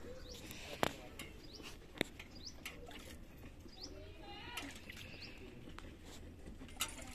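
Birds chirping now and then in short rising calls over a steady background, broken by a few sharp clicks: about a second in, about two seconds in, and near the end.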